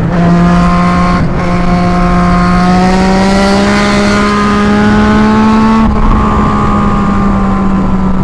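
Yamaha MT-09's inline three-cylinder engine running through a straight pipe with no muffler, very loud, under way at a steady pace. Its note climbs slowly, then drops a little about six seconds in as the rider eases off or shifts.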